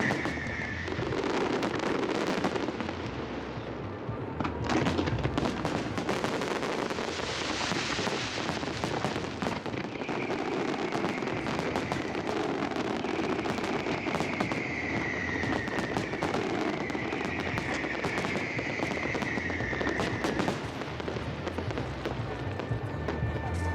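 Fireworks display: aerial shells banging and crackling one after another in quick succession.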